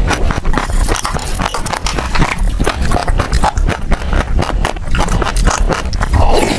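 Passion fruit seeds crunching and popping between the teeth while being chewed close to the microphone: a dense, steady run of quick crackling clicks.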